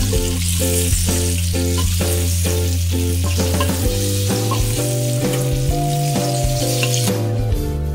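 Flour-coated chicken wings frying in shallow oil in a wok, sizzling steadily as a metal spatula turns them. Background music with a repeating melody over a held bass plays along.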